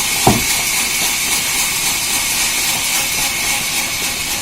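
Sawmill machinery running with a steady high hiss, with one short thump just after the start.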